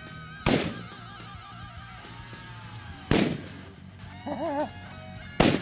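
Three AR-15 rifle shots, roughly two and a half seconds apart, over background guitar music.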